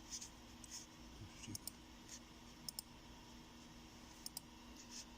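Faint, scattered clicks of a computer mouse and keyboard, several in quick pairs, over a steady low electrical hum.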